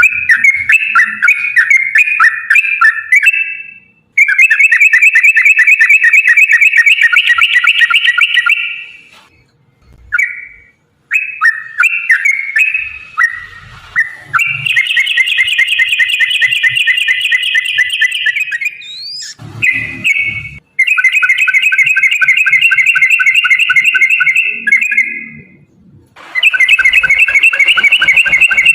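Yellow-vented bulbul (trucukan) singing long, fast rolling phrases of bubbly repeated notes. Each phrase lasts several seconds, with brief pauses between them.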